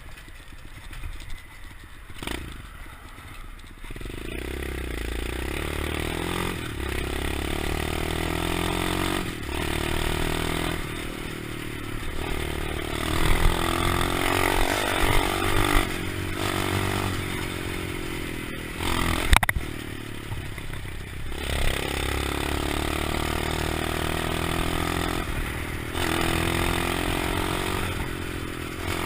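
125cc single-cylinder pit bike engine, quieter for the first few seconds and then running loud from about four seconds in, revving up and down again and again. A sharp knock stands out about 19 seconds in.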